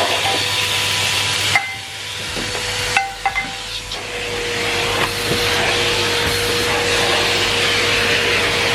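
Numatic Henry Pet vacuum cleaner running, a steady rushing suction hiss with a motor whine. About one and a half seconds in and again around three seconds in, a few knocks sound from the tool as the hiss briefly drops.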